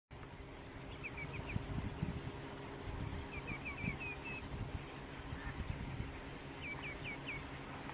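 Birds giving short high calls in three quick series of four to six notes, about a second, three seconds and six and a half seconds in, over a low rumble.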